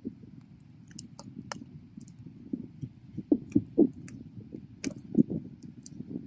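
Wood bonfire burning: a steady low rush of flames under sharp crackles and pops. The loudest pops come in a cluster around the middle and again about five seconds in.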